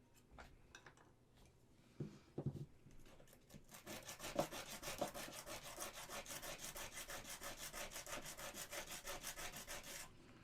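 Resin model part being sanded with rapid back-and-forth strokes, several a second, for about six seconds. This is clean-up of a joint on the resin kit. A few light knocks of resin parts being handled come before it.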